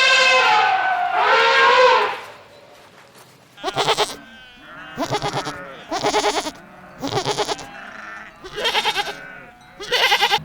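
Goats bleating: six short quavering bleats about a second apart, after a long held call that fades out in the first two seconds.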